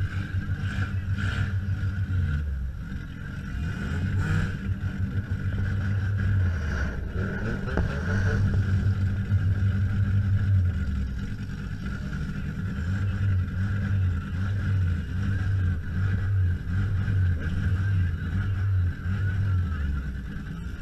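Demolition derby car's engine running loudly, heard from inside the stripped cab, its low rumble pulsing up and down in steady blocks as the throttle is worked. A few sharp bangs come in the first four seconds.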